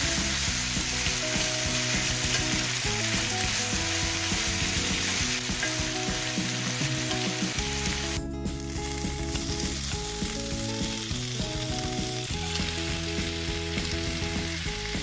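Chicken breast, garlic and vegetables sizzling in butter in a hot frying pan as they stir-fry, a steady frying hiss that dips briefly about eight seconds in. Soft background music plays underneath.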